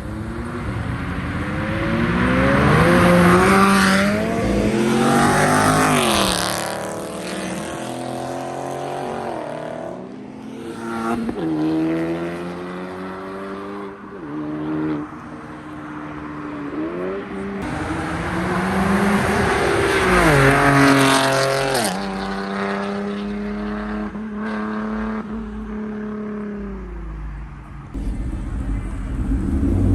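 Modified cars accelerating hard as they pull away, engines revving up through the gears. Each pull climbs in pitch and drops back at a shift, several times over, loudest a few seconds in and again about two-thirds of the way through.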